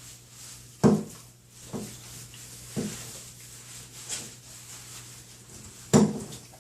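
Several sharp knocks and thumps against a bathtub while a wet dog is lathered, the loudest about a second in and again near the end, with weaker ones between, over a steady low hum.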